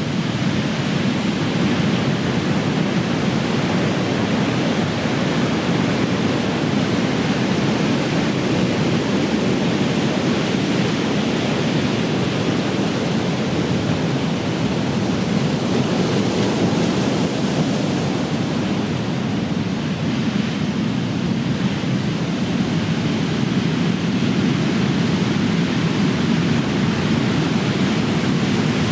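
Big ocean waves breaking and washing in as a continuous, steady wash of surf, with no separate crashes standing out.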